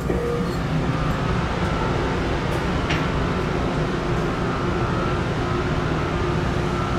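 Steady mechanical drone of a large car ferry's engines and onboard machinery, a dense low rumble with faint steady tones above it.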